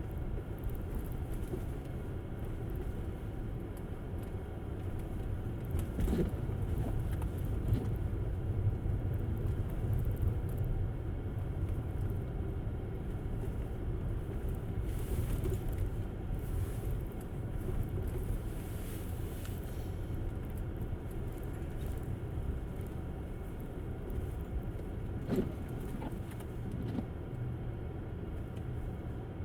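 Tesla Model S driving on snow-covered roads: a steady low tyre and road rumble, with a short sharp knock about six seconds in and another near the end.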